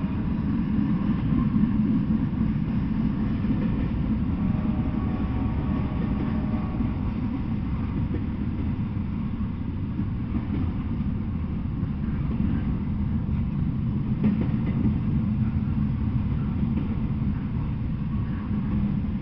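Double-stack intermodal freight train rolling past, a steady low rumble of steel wheels on rail.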